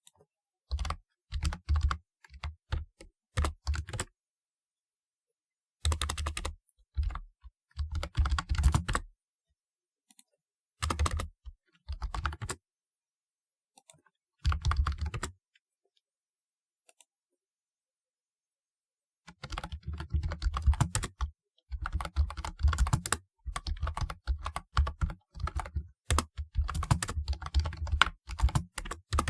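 Typing on a typewriter-style keyboard: fast runs of key clicks in short bursts with silent pauses between, settling into steady continuous typing for the last ten seconds or so.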